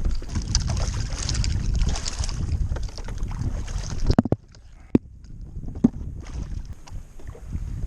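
Wind buffeting the microphone on a kayak on open water, a rumbling rush that drops away for about two seconds in the middle, with a few sharp knocks about four, five and six seconds in.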